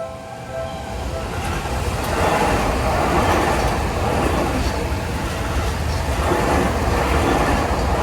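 A Seibu electric train passes through a Japanese level crossing. Its loud, steady wheel-on-rail running noise builds over the first two seconds and drowns out the crossing bell's repeating dings, which are heard only in the first second.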